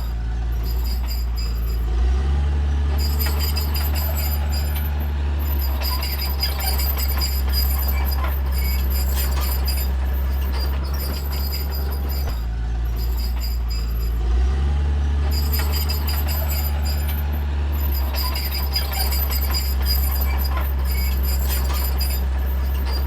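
Caterpillar D3C bulldozer's diesel engine working under load, with a constant clatter over a low drone. The engine note rises about two seconds in, drops around halfway and picks up again, as it would over a push cycle.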